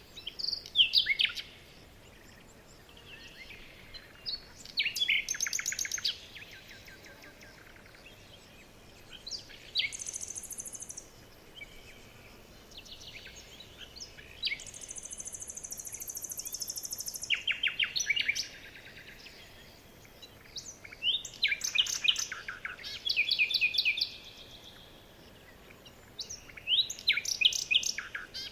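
Songbirds singing in short phrases of rapid trills, one every few seconds, with two higher, thin buzzing trills near the middle.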